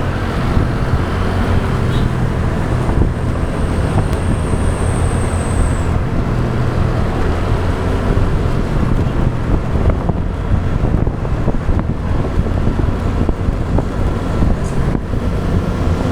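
Motorbike riding in traffic: a steady low engine hum under wind buffeting the action camera's microphone and road noise. A faint high squeal sounds for a few seconds near the start.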